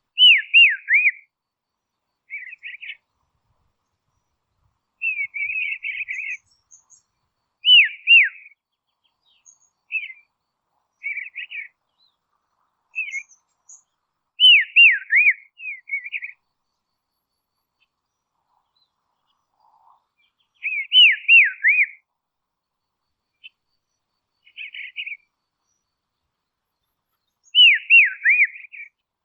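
A songbird calling: short phrases of quick, falling whistled notes alternating with buzzier chattering notes, repeated about every one to three seconds with short pauses between.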